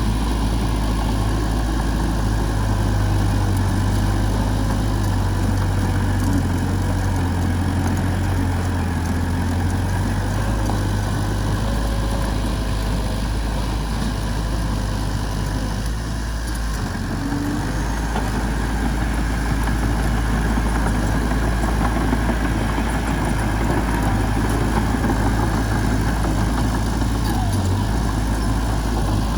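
A heavy machine's diesel engine running steadily at a constant pace, with a brief slight drop in level about halfway through.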